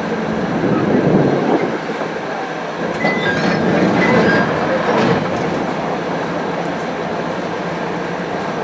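Train noise at a station: a train on the next track rumbling and clattering over the rail joints as it pulls away, over the steady running of the standing KiHa 350 diesel railcar. A few short high squeals come about three to four seconds in.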